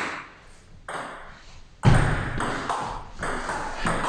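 Table tennis rally: the celluloid-type plastic ball clicking off rubber-faced bats and bouncing on the table. There are two separate clicks in the first two seconds, then a quick run of hits and bounces a few tenths of a second apart.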